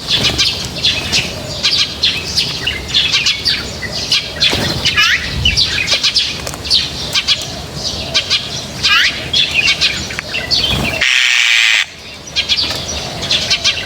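A flock of small birds chirping and chattering without pause, many short overlapping calls with quick rising and falling notes, and some wing flapping. About eleven seconds in, a harsh hissing sound lasts under a second.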